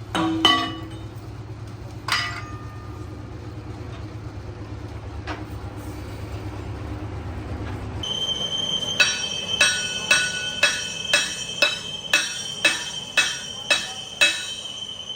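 A steady low machine hum with a couple of sharp metal knocks cuts off about halfway. It is followed by a run of about ten hammer blows on steel, roughly two a second, each leaving a bright ring.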